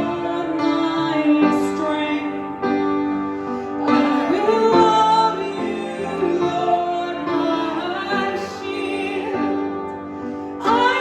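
A woman singing a slow song to instrumental accompaniment, holding long notes.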